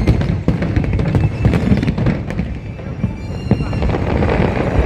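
Fireworks bursting and crackling in quick succession over a constant low rumble, with people's voices and music mixed in.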